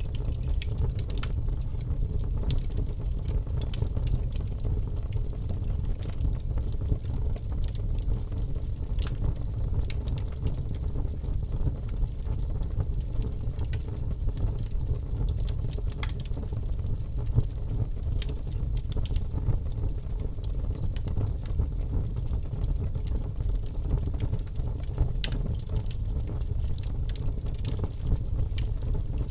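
Wood fire burning in a fireplace: a steady low rumble of flames, with many scattered sharp crackles and pops from the burning logs.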